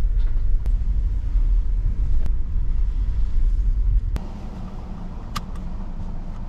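Steady low rumble of a car driving on the road, dropping to a quieter rumble at a cut about four seconds in, with a few faint clicks.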